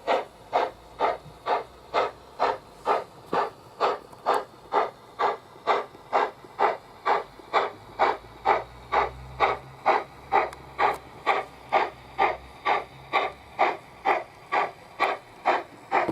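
Sound-equipped Trix Big Boy model steam locomotive with an ESU LokSound decoder, playing steady steam exhaust chuffs through its small onboard speaker at an even pace of about two a second.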